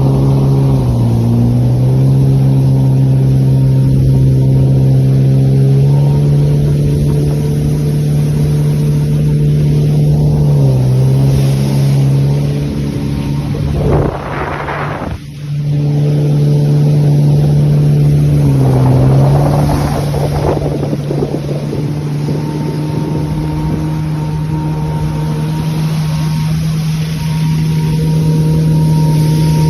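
Jet ski engine running at a steady cruising pitch, easing off briefly a few times. About halfway through, a short rush of water noise comes as the engine note cuts out for a moment, then picks back up.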